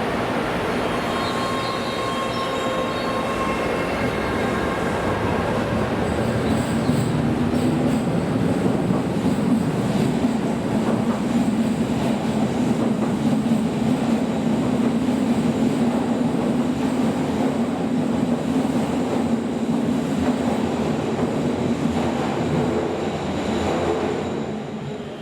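Subway train departing an underground platform and running out past it: steady rumble of wheels on rail with some wheel squeal, a faint motor whine in the first few seconds, building over several seconds and falling away near the end.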